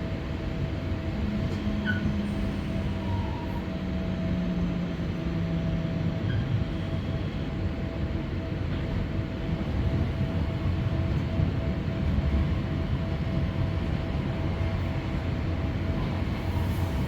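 Passenger train running on the rails, heard from inside a carriage: a steady low rumble with a faint steady whine, and a low drone that falls slightly in pitch over the first few seconds.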